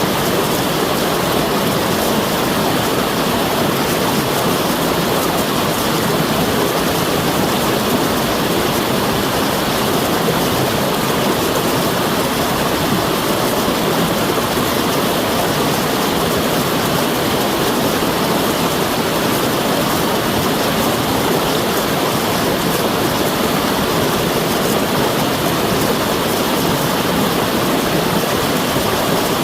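Rushing water, a steady full noise of a stream or falls that keeps on without change.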